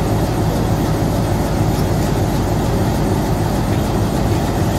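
Steady, unbroken low rumble of a train at the station, with no distinct events.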